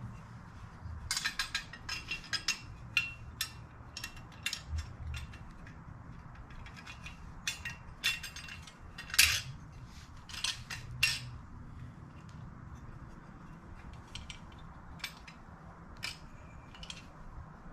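Small metal parts and hand tools clicking and clinking in irregular bursts during bench reassembly of a heater control unit. The clicks come in a busy run for the first ten seconds or so, then a few more near the end.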